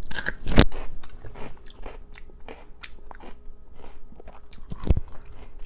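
A person biting into a piece of raw pepper with a loud crunch about half a second in, then chewing it with a run of small crunches.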